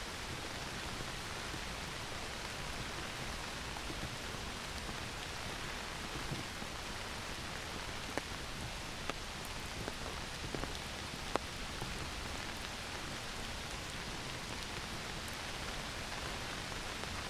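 Heavy rain falling steadily on forest foliage and ground, an even hiss with a few sharp ticks from single drops landing close by.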